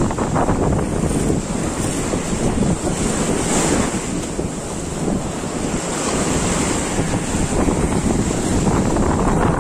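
Wind blowing across the microphone, rumbling, over the wash of sea waves.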